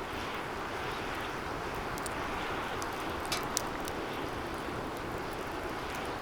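Wood fire burning in a steel fire pit: a steady rushing sound with a few sharp crackles, two of them louder about halfway through.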